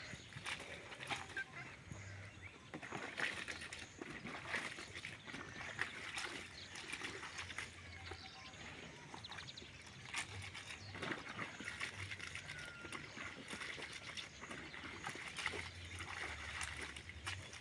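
Clothes being hand-washed in a basin of water: irregular sloshing, splashing and scrubbing, with a few faint bird chirps in the background.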